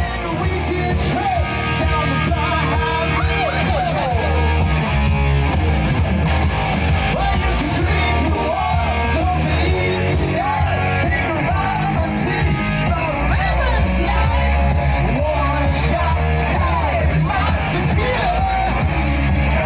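Hard rock song playing: a singer with a wavering voice over electric guitar, heavy bass and drums.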